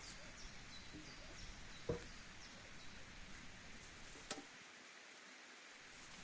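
Quiet outdoor background with a single sharp knock about two seconds in and a shorter sharp click a couple of seconds later, with a few faint high chirps.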